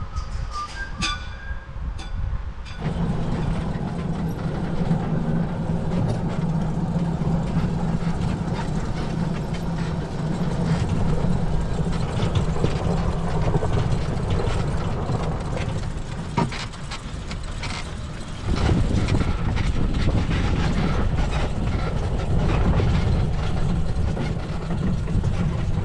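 Electric UTV driving over a rough dirt track: a steady low hum with rumbling and rattling that sets in about three seconds in, eases briefly, and picks up again near eighteen seconds.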